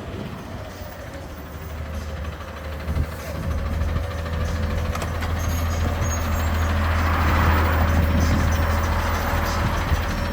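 Garbage truck engine running with a steady low hum. It grows louder from a few seconds in and is loudest a little past the middle.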